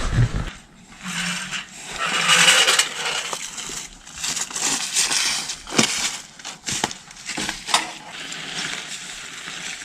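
Camping gear being handled and packed up: uneven rustling and scraping broken by a series of sharp clicks and knocks.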